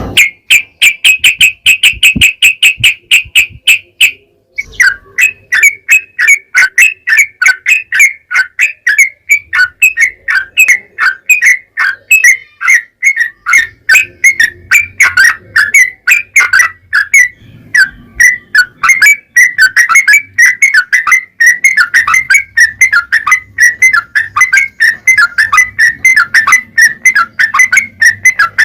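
Yellow-vented bulbul (trucukan) song: a fast, even trill for about four seconds, then after a short break a long run of rapid repeated notes.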